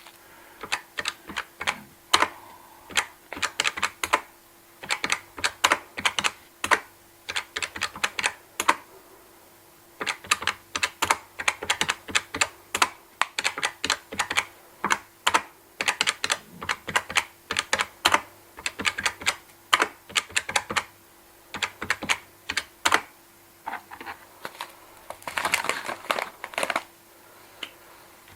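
Cash register keys pressed in quick runs of sharp clicks, with short pauses between the runs; near the end comes a denser, longer stretch of clatter.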